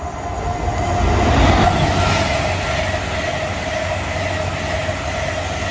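A train running through the station, its rumble and rail noise building to a peak about a second and a half in and then holding steady, with a steady whine over it.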